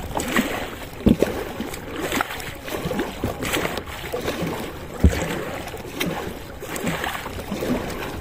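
Kayak paddle strokes splashing and dripping water, about one stroke every second, with two sharper knocks, about a second in and about five seconds in.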